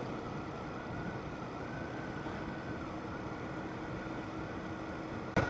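Motorcycle ride noise: a steady, faint engine hum under road and wind noise, with a single sharp click near the end.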